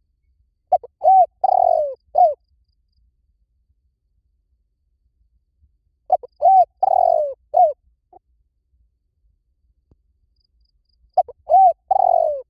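Spotted dove cooing: three phrases about five seconds apart, each a couple of quick short notes, an arched coo, a longer falling coo and a short final note; the last phrase is cut off at the end.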